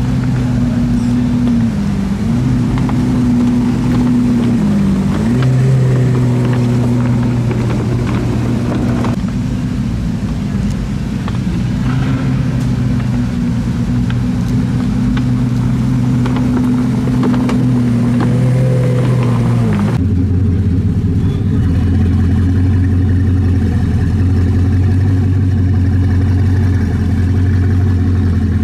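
Ferrari Daytona SP3 V12 engines idling at low speed, the note dipping and rising slightly a few times. After a cut about two-thirds in, a Bugatti Chiron Super Sport 300+ W16 idles with a deeper, steady note.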